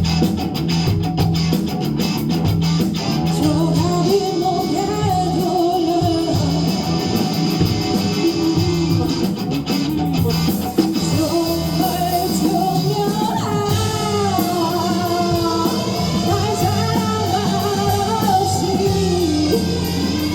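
Rock band playing live, with electric guitar, bass, drums and a lead vocal, a melody line bending up and down over steady low notes.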